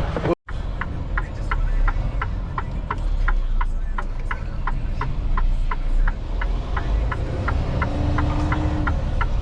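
Turn-signal flasher ticking steadily about three times a second inside a truck cab, over the low rumble of the truck's engine; a short steady hum sounds near the end.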